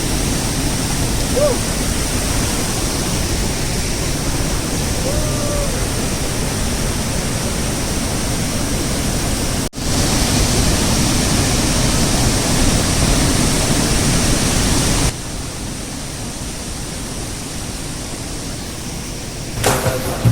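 Waterfall in monsoon flow: a loud, steady rush of falling water. It cuts out for an instant about ten seconds in, and about fifteen seconds in it carries on quieter and duller.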